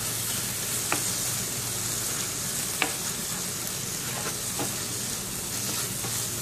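Onion, tomato and masala sizzling steadily in hot coconut oil in a pan as they are stirred and sautéed, with a few sharp clicks of the spatula against the pan, the clearest about a second in and near three seconds.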